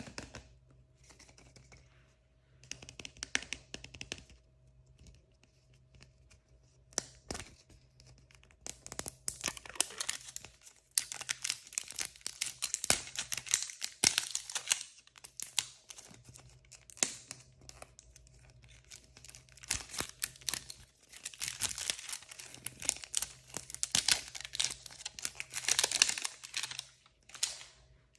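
Plastic blind-bag wrappers being torn open and crinkled by hand, in bursts of rustling and crackling with short pauses between.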